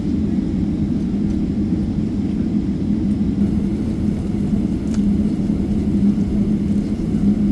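Boeing 777-300ER taxiing, its GE90-115B turbofans at taxi power giving a steady rumble with a constant low hum.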